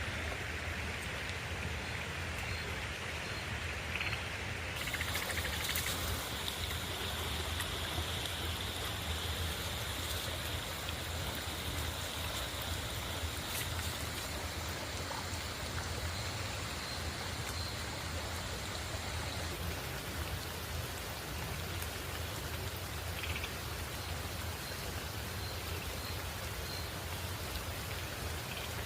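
River water flowing: a steady, unbroken rushing noise with no distinct events.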